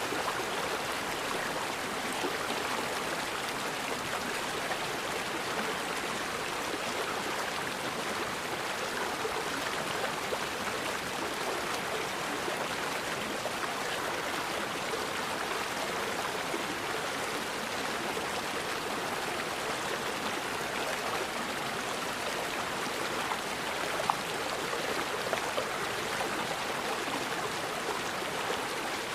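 Forest river water flowing steadily, an even continuous rush with no pauses, and one brief tick late on.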